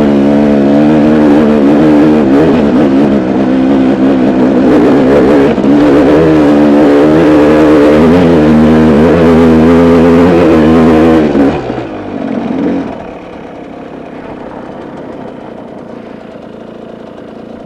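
Engine of the vehicle being driven, running loud under load on a rough dirt track, its pitch wavering with the throttle. About eleven seconds in it is let off and drops to a much quieter idle.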